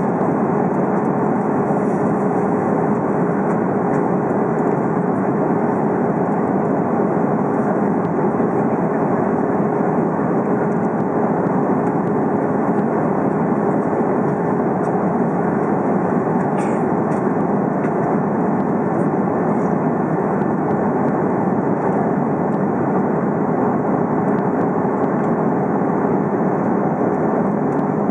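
Steady engine and airflow noise inside an airliner cabin in flight: an even, constant rush with a steady hum running through it.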